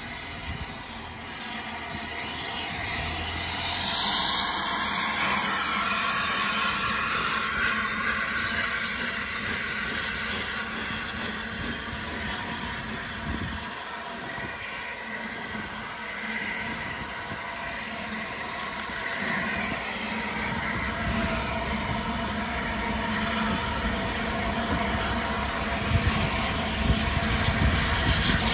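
A train running past: a steady rumble and rail noise that swells a few seconds in and holds, with a few heavier low thumps near the end.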